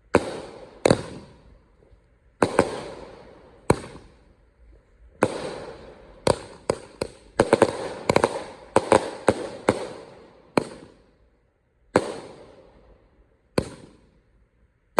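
Fireworks going off: more than a dozen sharp bangs at irregular intervals, each with an echoing tail. The bangs come closest together in the middle.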